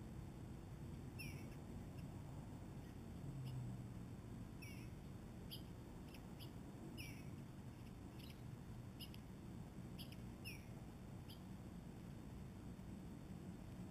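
Songbird calls: about a dozen short, high chirps and squeaky notes scattered through, several of them sliding downward in pitch.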